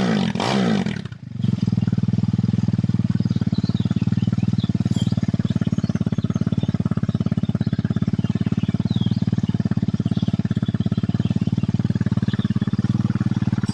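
Bored-up Honda Tiger single-cylinder four-stroke engine, about 260 cc, with a Jaguar 250 cylinder head, on test. It is blipped up and down in quick revs for about a second, drops out briefly, then settles into a steady, even idle.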